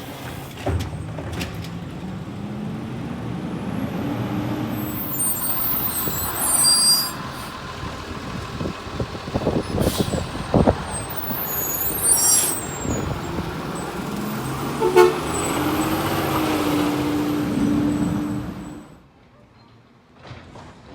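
Trucks' engines running and pulling past, the engine pitch rising twice as they accelerate. Short high-pitched squeals come about a third of the way in and again midway, with a few sharp knocks. The sound drops away near the end.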